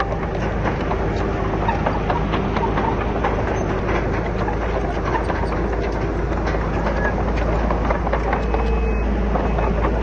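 Komatsu D31PX crawler bulldozer's diesel engine running steadily, with a dense stream of sharp clanks and knocks from its steel tracks and the rock it is working.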